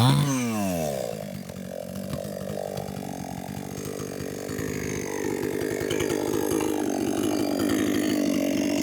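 Chainsaw cutting into an old rubber-tree stump: the engine drops from a high rev right at the start, then runs on steadily under load, getting a little louder in the second half.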